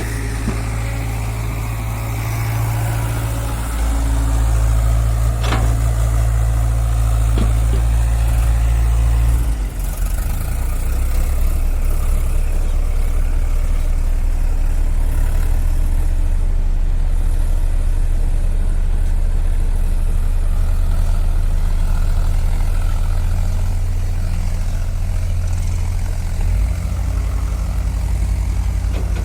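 Heavy diesel machinery engine running steadily with a deep drone, its note shifting to a different, slightly pulsing pitch about nine and a half seconds in, with a couple of faint knocks in the first half.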